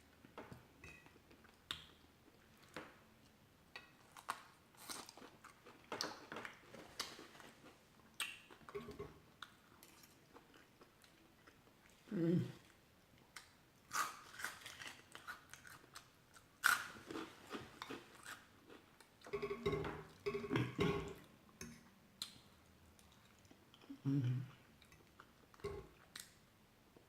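A person chewing and biting food close to the microphone, with many small wet mouth clicks and some crunching, as in a mukbang eating show.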